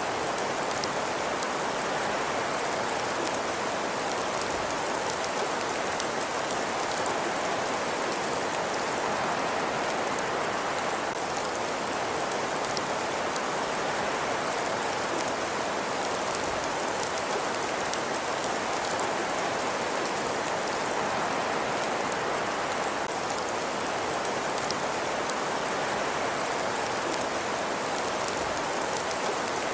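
Fireplace ambience: a steady, even hiss with many fine crackles throughout, close in character to rain.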